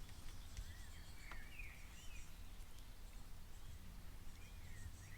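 Faint bird chirps, a few short gliding calls, over a low steady hum.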